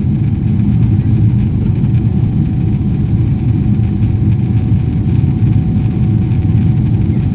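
Steady low rumble of a Boeing 777-300ER's engines and airflow heard inside the passenger cabin, with a faint steady whine above it.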